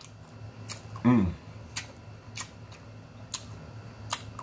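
Close-miked mouth sounds of someone eating pork ribs: sharp wet lip-smacking and chewing clicks, about one every half-second to second, with a short hum falling in pitch about a second in.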